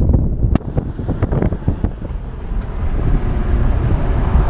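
BMW E36 being driven on the street: a low rumble of engine and road, with wind buffeting the microphone in irregular gusts, heaviest in the first two seconds.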